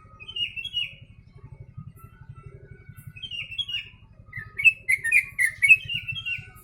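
Yellow-vented bulbul (trucuk) singing song phrases learned from the sooty-headed bulbul (kutilang): short chirpy runs of quick falling notes. They come in three bursts, the last a longer, louder string of notes near the end.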